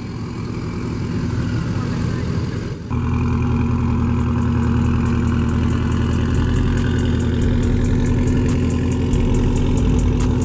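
A car engine idling steadily. About three seconds in, the sound breaks off and comes back louder and steady.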